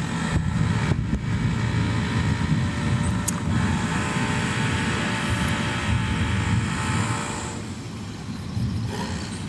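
Rolling thunder: a long, low, uneven rumble, with a hiss of storm noise that swells in the middle and eases off near the end.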